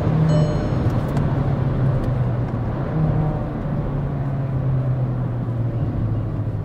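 Volkswagen Virtus GT's 1.5-litre turbo petrol four-cylinder heard from inside the cabin while driving, a steady engine hum over road noise that shifts a little in pitch and drops slightly near the end. A short high-pitched tone sounds in the first second.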